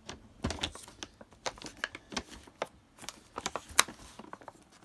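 Irregular clicks, taps and rustles of a cardboard-wrapped firework cake being handled and turned over, with the sharpest knock near the end.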